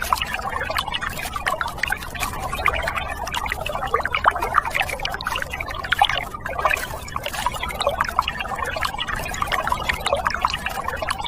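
Water trickling and splashing in a steady, irregular patter of small plops.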